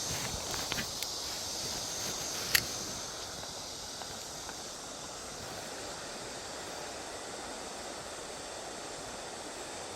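Steady rush of a river running high after rain. High-pitched insect chirring fades out about three seconds in, with a few sharp clicks early on, the loudest about two and a half seconds in.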